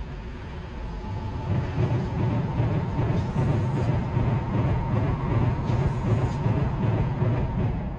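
A train running past on the tracks below: a steady rumble with a faint steady whine, building about a second in.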